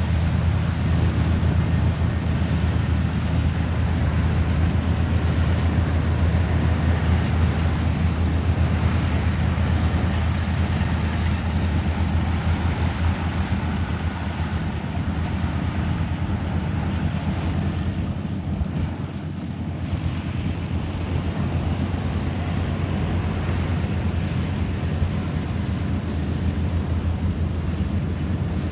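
Combine harvester running steadily while cutting wheat: a low engine drone under a constant rushing noise.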